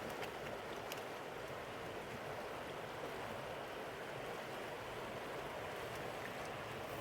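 Steady rush of a mountain river, with a few faint clicks in the first second.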